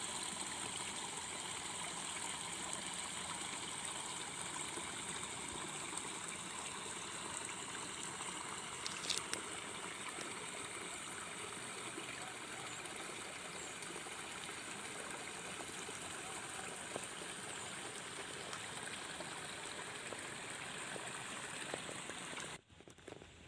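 Water flowing steadily through a rice field, with a steady high-pitched hum over it. A brief sharp sound about nine seconds in, and the sound drops away abruptly near the end.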